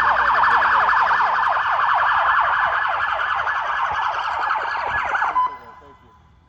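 Police car siren wailing in a rapid warble, then cutting off suddenly about five seconds in as the car pulls up.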